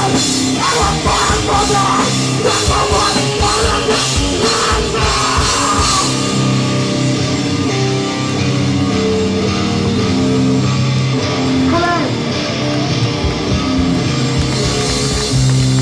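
Hardcore band playing live: guitars and drum kit together, then about six seconds in the drums drop out and held guitar chords ring on.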